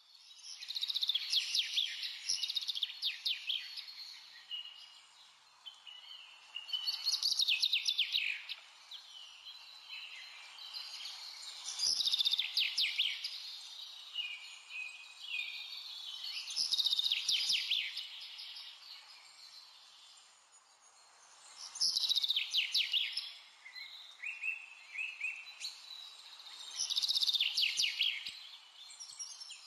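A songbird singing in six bursts of rapid high trills and chirps, one about every five seconds.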